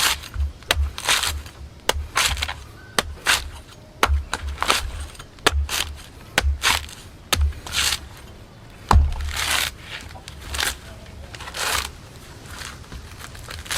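A blade chopping into a coconut in repeated sharp strikes, about one a second and unevenly spaced, each with a dull thud. Short scraping swishes come between some strikes, and the hardest blow lands about nine seconds in.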